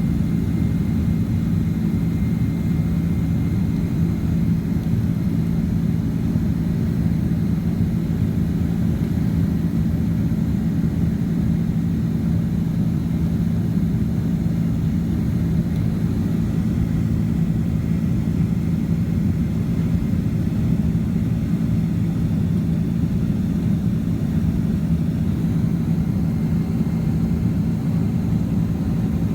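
Steady cabin noise of a Boeing 767-300ER's jet engines and airflow, heard from inside the cabin: a constant low roar with a steady hum and no change in pitch.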